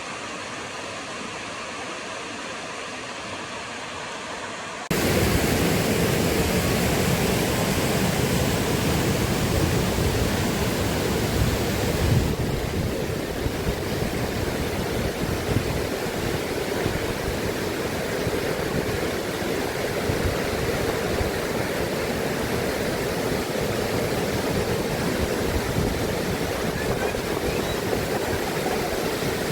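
Waterfall rushing, a steady roar of falling water. It is quieter and duller for the first few seconds, then suddenly much louder and fuller from about five seconds in.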